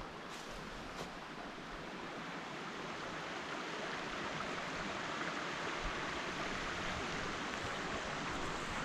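Steady rush of running water from a stream or waterfall, growing gradually louder.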